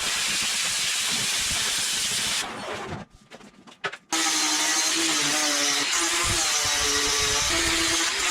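Power drill boring through thick steel plate with a worn bit. It stops for about a second near the middle, then starts again with a high squeal over the cutting noise.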